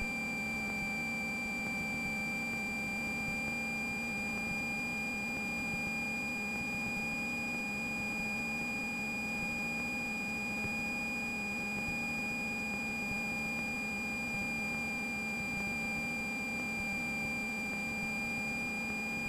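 A steady, unchanging high-pitched electronic tone over a faint low hum from the Cessna 172's running engine, heard through the cockpit intercom audio feed.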